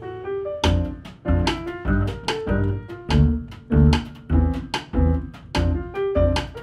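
Jazz piano trio of piano, double bass and drums playing live. After a soft held chord, the band comes in strongly about half a second in with accented notes landing roughly twice a second over heavy bass notes.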